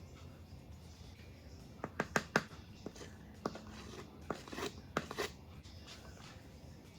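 A measuring cup knocking and scraping in a bag of self-rising flour as a cup of flour is scooped and levelled off: a few light clicks and knocks, then short scrapes.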